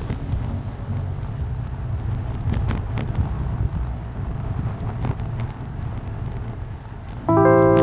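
Wind buffeting the action camera's microphone while cycling, a steady low rumble with a few faint clicks. Near the end, a loud electric-piano chord of background music comes in.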